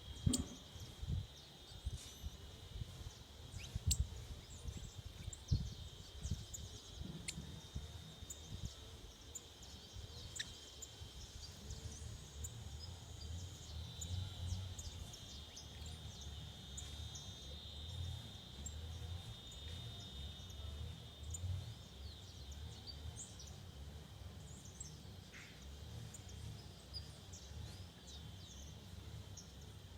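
Forest ambience: a steady high-pitched insect drone with many short, scattered bird chirps over it, and a low rumble underneath. A few faint knocks in the first few seconds.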